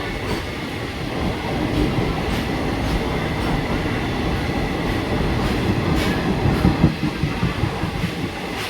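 Howrah–Kalka Super Express train running on the track: a continuous rumble and rattle of the wheels and coaches, with a few louder clacks near the end.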